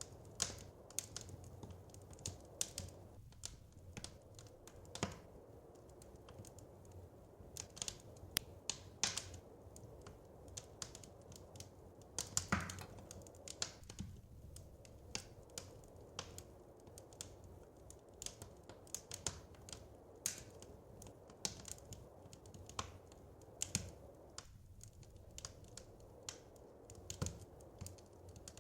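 Wood fire crackling in a fireplace: irregular sharp pops and snaps over a low, steady rumble, with a denser burst of crackles about halfway through.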